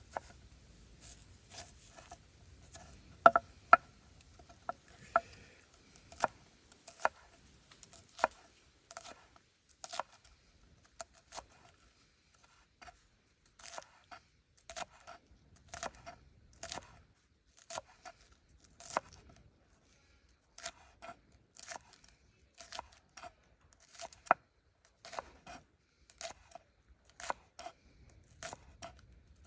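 Kitchen knife chopping green onions on a cutting board: a long run of sharp taps, about one or two a second at an uneven pace, with a few harder strokes a few seconds in.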